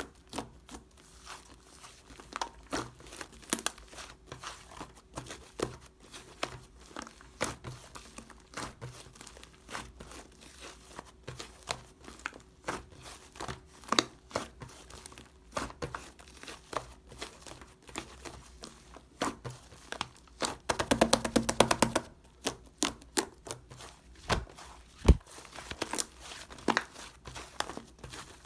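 Hands playing with slime: many short sticky clicks and pops as it is pressed and pulled. About 20 seconds in comes a fast run of clicking squelches lasting a second or two.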